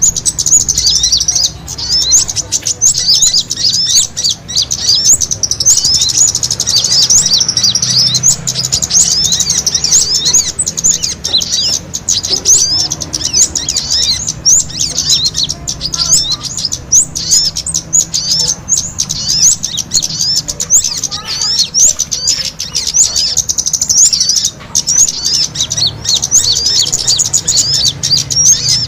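Many small songbirds chirping fast and without a break, their quick high chirps overlapping. It is a lure call of small birds squabbling, used to draw other birds in.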